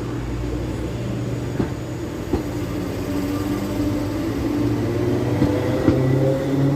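MTR East Rail line MLR electric multiple unit running along the track, with a steady motor hum. Its pitch starts rising about five seconds in, and a few sharp knocks come from the wheels passing over rail joints.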